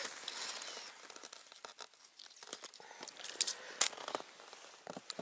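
Irregular sharp crunches, typical of footsteps on cold, frozen snow, with some crackling rustle.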